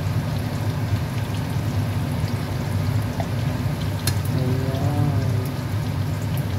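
Lentil meatballs sizzling and crackling in shallow oil in a nonstick pan while being basted with a metal spoon, over a steady low hum. The spoon clinks against the pan once, about four seconds in.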